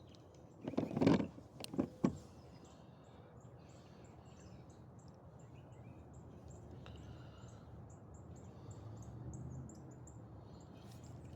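Two brief loud noises about one and two seconds in, then small birds chirping faintly over a low steady background rumble.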